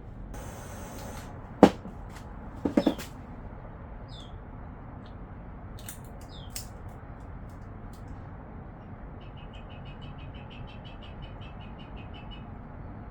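A sharp click about a second and a half in, then a quick run of three knocks, like small hard objects being handled, over a steady faint background hiss. Birds chirp a few times, and near the end there is a fast trill of rapid chirps.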